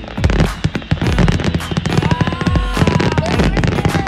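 Aerial fireworks bursting in rapid succession, many bangs and crackles a second over a low rumble, with background music underneath.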